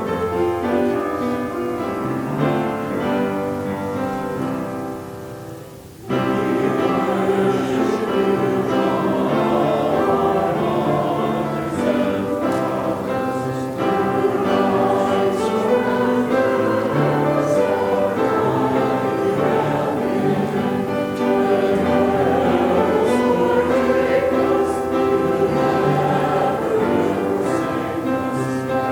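Choir singing with instrumental accompaniment, a church anthem or sung response. The music drops away briefly about six seconds in and then comes back fuller.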